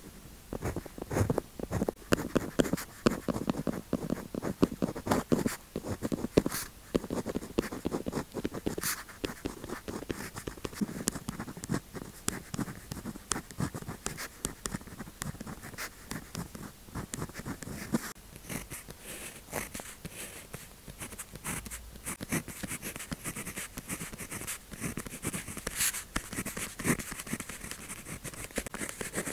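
Pen tip scratching across paper in quick, continuous strokes, as colours are swatched. The strokes sound fuller for the first dozen seconds or so, then lighter and hissier.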